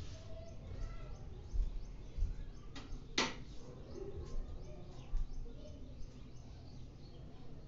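Quiet room with faint bird chirps and one sharp knock about three seconds in.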